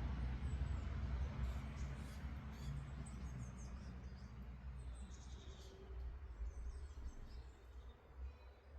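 Small birds chirping at a garden water bowl: many short, high chirps, busiest through the middle and again near the end, over a low rumble that fades gradually.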